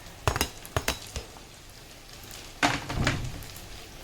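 Metal utensils clinking and knocking against cookware: a few sharp taps in the first second, then a louder clatter about halfway through.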